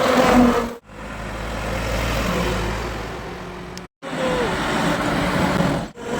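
Highway traffic with trucks passing: in the middle, one heavy vehicle's rumble swells and fades as it goes by, and the sound cuts off sharply several times between short clips.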